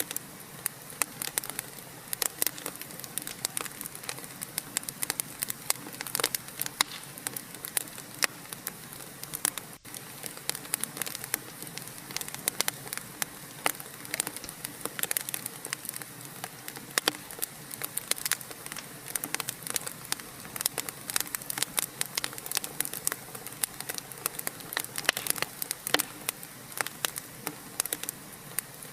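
Wood fire crackling: a dense, irregular run of sharp pops and snaps over a steady hiss, with a momentary dropout about ten seconds in.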